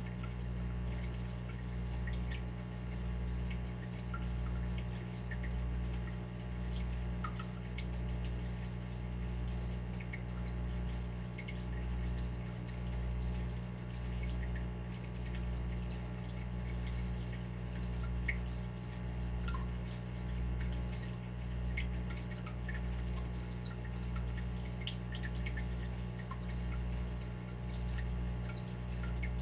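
Water dripping and trickling: small scattered drops over a steady low hum that swells and fades every second or so.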